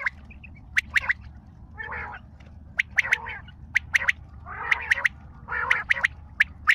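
Quail calling: sharp short notes in quick clusters of two or three, alternating with harsher, noisier calls about every second, over a steady low hum.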